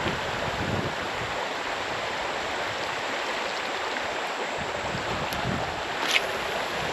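Creek water flowing, a steady rushing hiss, with a single short sharp click near the end.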